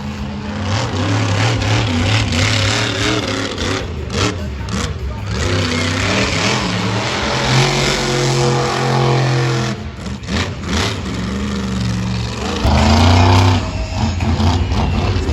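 Monster truck engine revving hard, its pitch climbing and falling again and again, with short throttle lifts about two-thirds of the way through.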